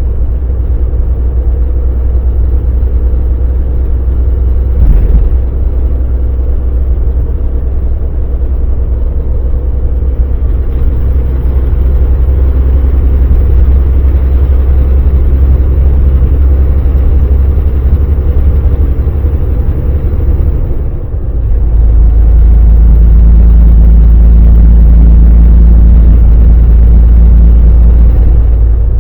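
Volvo VNL semi truck's diesel engine running while driving, a loud, steady low drone with road noise. There is a single thump about five seconds in, and shortly after twenty seconds the drone dips briefly, then comes back louder and steadier with a faint hum above it.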